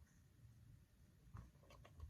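Near silence: faint room tone, with a few faint clicks in the second half.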